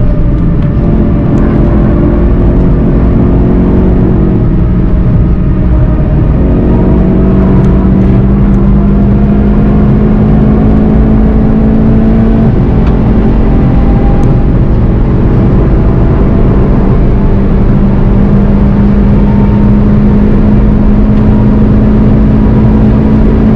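VW Golf GTI TCR's turbocharged 2.0-litre four-cylinder engine pulling hard under acceleration, heard from inside the cabin over road and wind noise. Its note climbs slowly, with a few shifts in pitch along the way.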